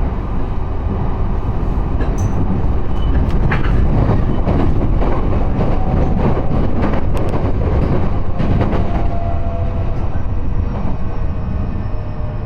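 Train running, heard from inside the passenger car: a steady rumble with rattling and clicking from the wheels on the track, and a faint whine that slowly falls in pitch near the end.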